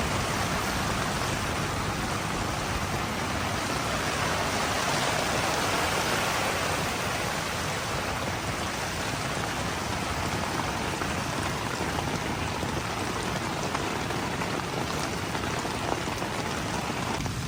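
Heavy storm rain falling steadily on a tent and its flysheet.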